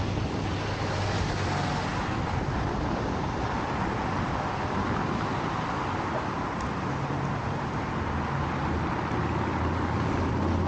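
A motorcycle riding along a road: steady road and wind noise with a low engine hum that grows stronger in the second half.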